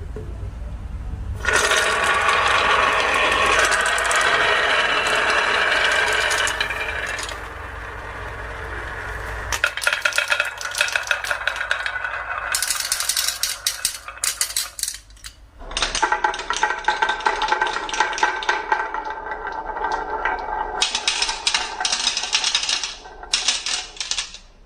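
Marbles rolling and clattering down a wooden marble run, a dense run of clicks and rattles that comes in three long stretches. A low hum sits underneath for about the first ten seconds.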